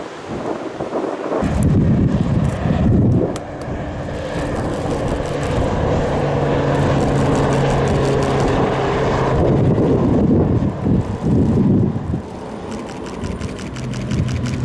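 Aircraft flying past at an airshow: engine noise rises about a second and a half in and holds, with a steady low drone through the middle. Wind buffets the microphone.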